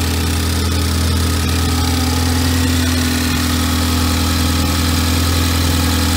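Turbocharged car engine idling steadily under the open hood, just started after fitting new charge pipes.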